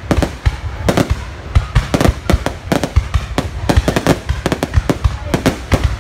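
Aerial firework shells bursting in a rapid, irregular volley of bangs, several a second, with no pause.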